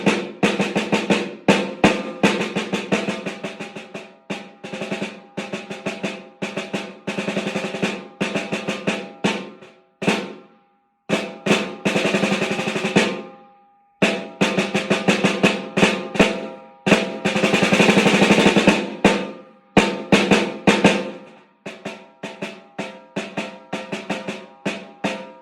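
Beginner snare drum solo: runs of sharp single strokes and accents, broken by sustained rolls of two or three seconds, with the drum stopping briefly twice.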